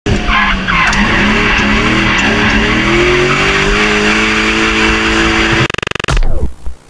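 BMW E36's swapped M60B40 4.0-litre V8 revving hard with the tyres squealing through a drift, heard from inside the cabin; the engine note climbs for about three seconds, then holds. Near the end it breaks into a rapid stutter and a short falling-pitch editing effect.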